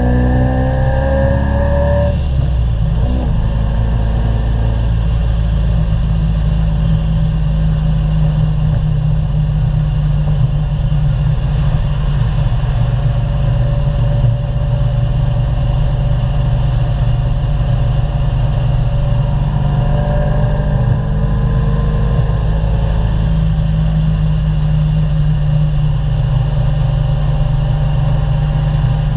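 Procharger-supercharged 383 LT1 V8 of a C4 Corvette heard from inside the cabin while driving at highway speed. Its pitch rises as it accelerates for about the first two seconds, then it settles into a steady drone, with another short rise in pitch about twenty seconds in.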